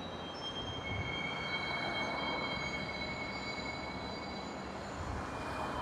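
Train running on the rails: a steady rumble with thin, high squealing tones from the wheels coming and going over it.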